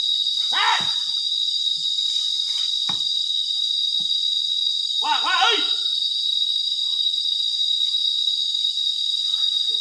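Steady high-pitched drone of insects, with two short shouted calls from a mahout to his elephant, about half a second in and again about five seconds in.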